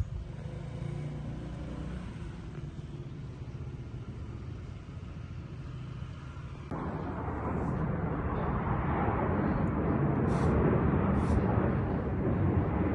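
Car running: a steady low engine rumble, then, after a sudden change about two-thirds of the way in, a louder, rising rush of road and wind noise as the car drives.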